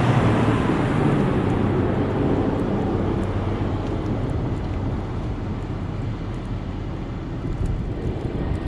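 Car driving in a snowstorm: steady engine and road noise with a low hum, slowly getting quieter.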